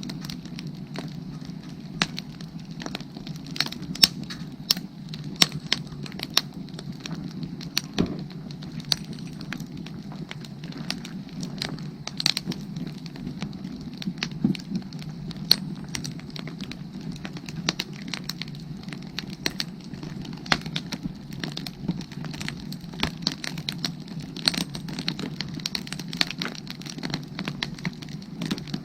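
Wood fire burning, crackling with frequent irregular sharp pops over a steady low background.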